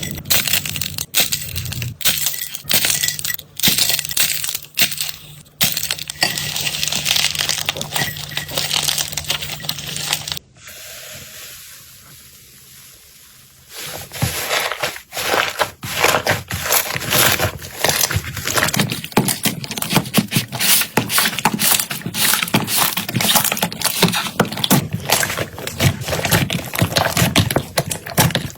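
Slime being squeezed and pressed close to the microphone: dense crackling, popping and squishing, with a quieter, softer stretch a third of the way through.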